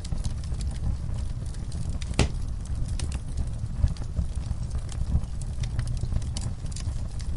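Wood fire burning in a fireplace: a steady low rumble with scattered crackles and small pops, and one louder pop about two seconds in.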